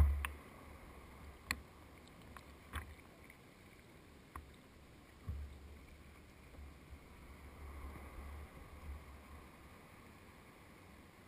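Quiet sounds of a kayak on the water: three sharp knocks spaced over the first few seconds, then stretches of low rumble.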